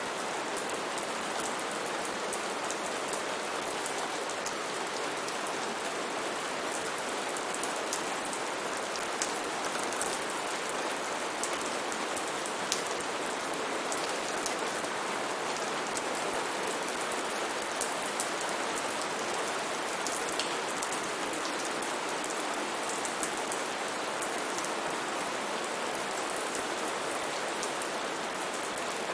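Steady heavy rain falling on foliage, a dense even hiss with many sharp individual drop patters on top.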